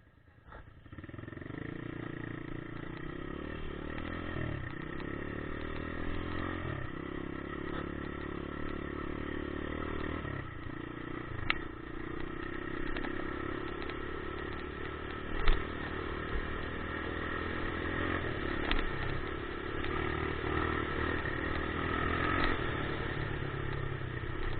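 Dirt bike engine running under way, its pitch dropping and climbing again several times as it is ridden. A few sharp knocks cut through, the loudest about fifteen seconds in.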